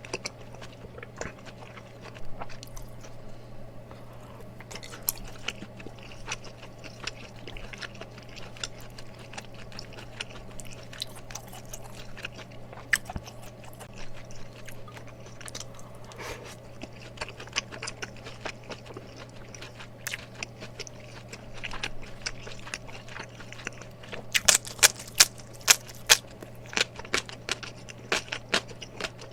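Close-miked mouth sounds of someone chewing and biting spicy mala tteokbokki (rice cakes in sauce). There are soft wet clicks throughout and a run of louder, crisp crunches near the end, over a steady low hum.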